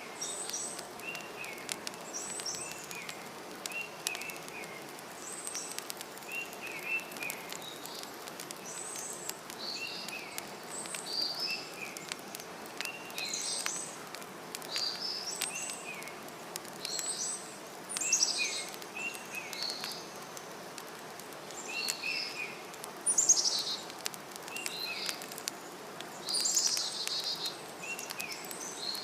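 Forest birdsong: several birds chirping and calling over and over, short phrases every second or two, over a steady background hiss. Faint sharp crackles of a campfire are scattered through it.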